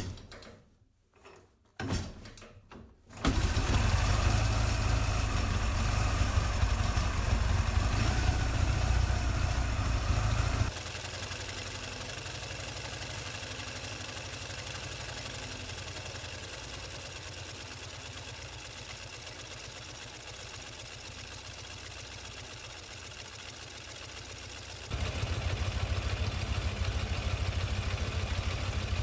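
Restored 1960 Soviet motorcycle engine being started: a few short kicks or cranks, then it catches about three seconds in and runs steadily. The level drops suddenly about 11 seconds in and comes back up near the end.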